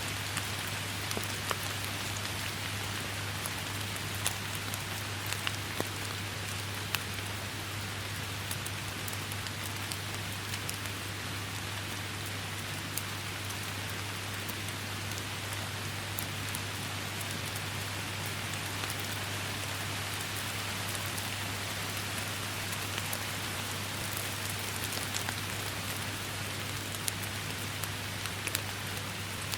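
Steady heavy rain, an even hiss with many sharp individual drop strikes ticking through it, over a steady low rumble.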